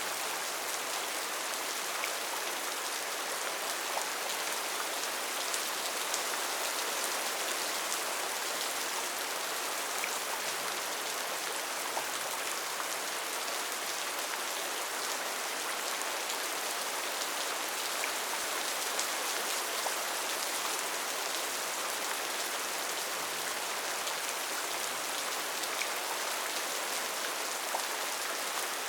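Steady rain falling on rainforest foliage, an even hiss with scattered individual drops ticking.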